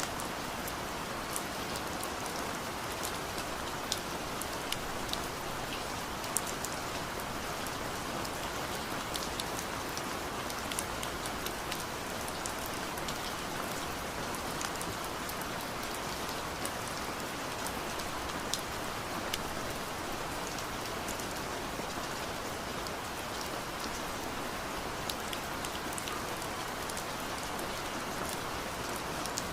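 Steady rain falling, a continuous patter with many distinct drops landing close by.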